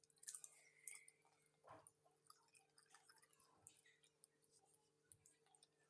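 Soft close-miked chewing of cooked chicken feet: a steady run of small wet clicks and crackles from the mouth, busiest in the first second.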